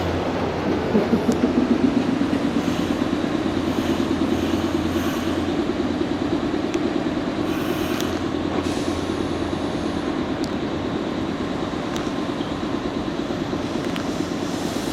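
Nankai electric train rolling along the track, a steady rumble of steel wheels on rail with a few sharp clicks spread through it.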